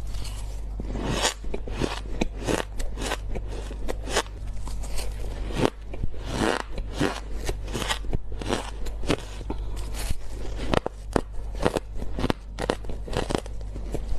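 Ice being bitten close to the microphone: an irregular run of sharp, crisp crunches, one or two a second.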